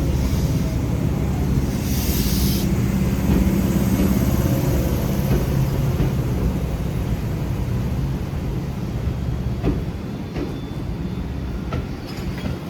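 Tobu 8000-series electric train running into the station platform, its low rumble slowly fading as it slows. There is a short hiss about two seconds in and a few sharp clicks near the end.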